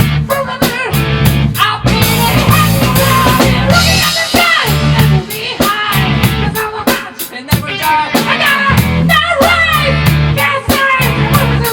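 Rock band playing live: a drum kit keeping a steady beat with regular cymbal strokes, under bass and electric guitar.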